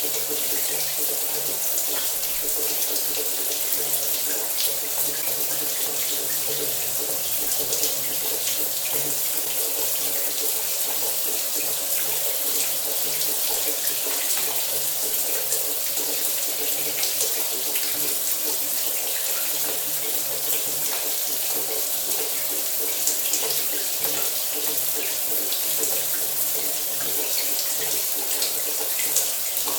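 Shower water running steadily and spattering, a continuous even hiss of falling water.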